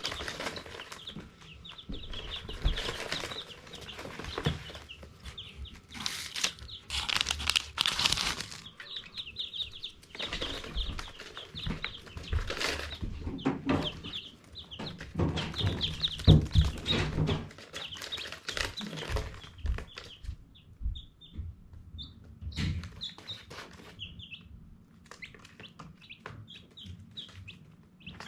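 Baby chicks peeping, a busy chatter of short, high cheeps repeated many times over, mixed with loud bursts of rustling and flutter. The loudest rustling comes about six to eight seconds in, and the chatter thins out after about twenty seconds.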